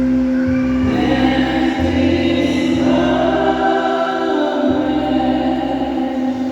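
Baptist church choir singing a gospel song in harmony over held chords, the voices filling out about a second in.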